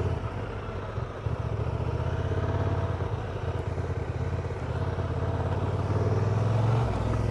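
Honda Transalp's twin-cylinder motorcycle engine running steadily, with a dip in the engine note near the end.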